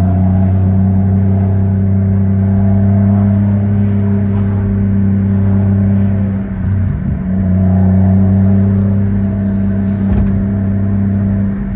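Turbocharged 1JZ-GTE inline-six in a Lexus IS300 running at a steady speed, with a brief easing off about two-thirds of the way through before it holds steady again, then dropping away at the very end.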